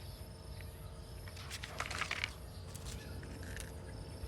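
Faint outdoor background with insects chirping over a steady low hum, and a brief patch of rustling and small clicks about two seconds in.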